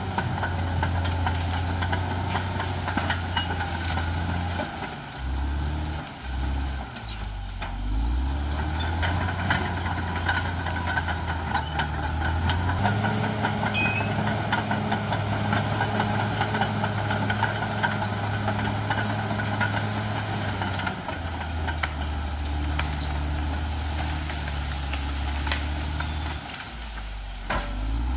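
CAT D6R XL bulldozer's diesel engine running under working load, its low drone stepping down and back up in pitch several times as the load and revs change, with scattered sharp clicks and cracks throughout.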